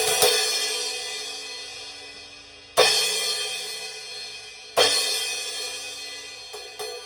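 Paiste Signature 14-inch Fast Crash cymbal struck with a stick three times, each crash bright and thin and fading within about two seconds. Near the end a run of quicker, lighter strokes starts, about three a second.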